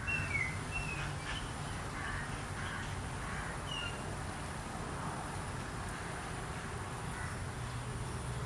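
Outdoor ambience: a few short bird calls, mostly in the first four seconds, over a steady low rumble and a thin high steady whine.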